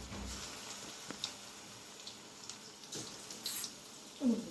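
Chicken frying in hot oil: a steady sizzle with scattered small crackles and pops.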